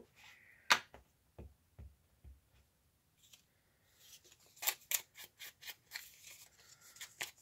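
Scissors snipping paper: a few scattered clicks and light handling knocks, then from about four seconds in a steady run of quick snips, about three a second.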